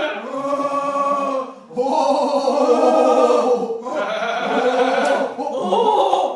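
Several human voices giving drawn-out, wavering, bird-like calls in long phrases with brief breaks between them.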